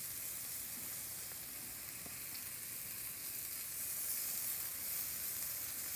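Raw beef burger patties and bacon sizzling in hot bacon fat on a flat-top gas griddle, a steady frying hiss that grows a little louder about four seconds in.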